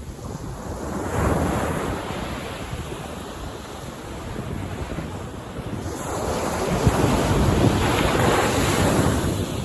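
Ocean waves breaking and washing up a beach: one wave swells about a second in, and a longer, louder one rushes in from about six seconds in.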